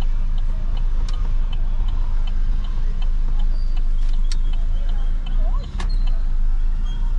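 Car running slowly, heard from inside the cabin: a steady low engine and road rumble, with a light, regular ticking about twice a second and a few sharp clicks.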